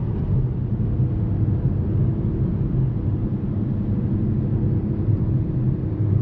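Steady low rumble of road and engine noise from a 2014 Volkswagen Passat TDI on the move, its 2.0-litre turbodiesel four-cylinder running at a cruise.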